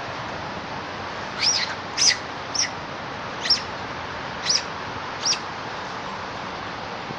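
A bird chirping: six short, high chirps, each dropping sharply in pitch, spaced roughly a second apart, over a steady background hiss.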